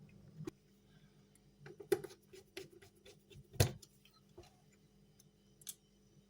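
A few scattered clicks and knocks of a graphics card and its cooler being handled during reassembly, the loudest about three and a half seconds in, over a faint steady hum.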